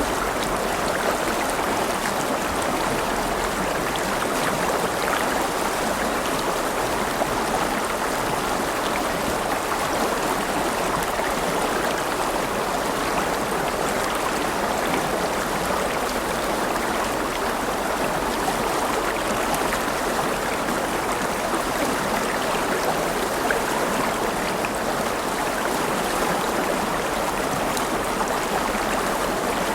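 River water running over rocks: a steady, even rushing and babbling.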